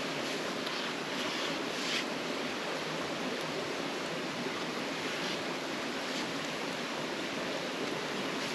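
Steady rushing of flowing water, like a creek, with a couple of faint brief rustles about one to two seconds in.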